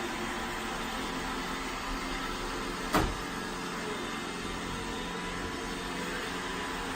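Roomba i7+ robot vacuum running steadily while it cleans, a constant motor and brush noise, with a single sharp knock about three seconds in.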